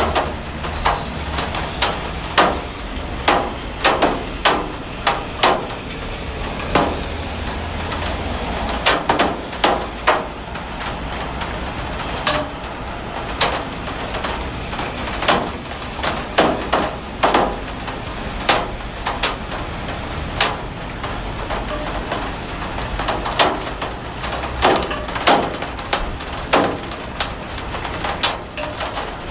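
Heavy rain, with large drops knocking irregularly on a hard surface, often several knocks a second, over a steady low rumble.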